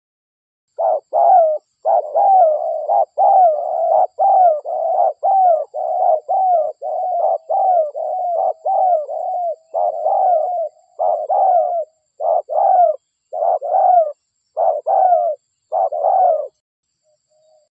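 Spotted dove (derkuku) cooing for use as a lure call: a long, fast run of short coos, each dropping in pitch at its end, that slows into more widely spaced coos before stopping near the end.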